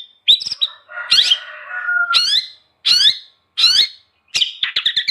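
Long-tailed shrike (cendet) singing: a string of short calls sweeping up and down in pitch, a little more than one a second, with a lower chattering phrase about a second in and a quicker run of short notes near the end.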